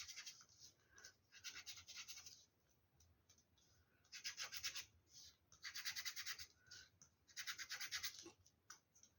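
Faint brushing of a small brush rubbing brown chalk onto EVA foam for shading, in short bursts of quick back-and-forth strokes with pauses between.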